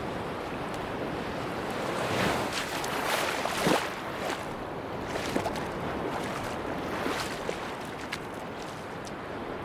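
Sea waves washing onto a beach: a steady wash of surf that swells as a wave breaks a couple of seconds in, peaks just before four seconds, and swells again near the seven-second mark, with faint scattered ticks.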